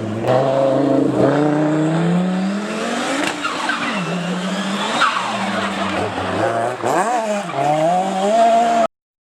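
Rally car engine driven hard, its pitch repeatedly rising and dropping as the throttle is worked and gears change. The sound cuts off suddenly near the end.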